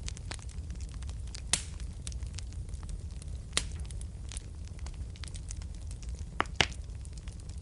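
Fire burning in a fireplace: a steady low rumble of flames with scattered soft crackles and a few sharp pops, two close together near the end being the loudest.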